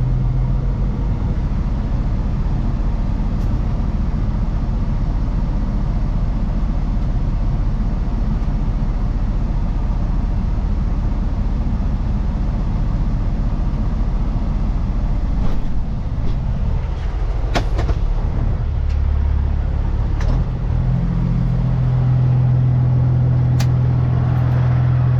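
Cat 320 excavator's diesel engine running steadily with a deep hum. Its note shifts about two-thirds of the way through and again near the end, as the machine is worked onto the trailer. A few sharp clanks sound over it in the second half.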